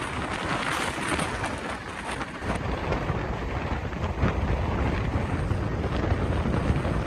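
A moving passenger train heard from its open coach door: rushing air and the train's running noise. About two and a half seconds in it changes to heavy low wind buffeting on the microphone.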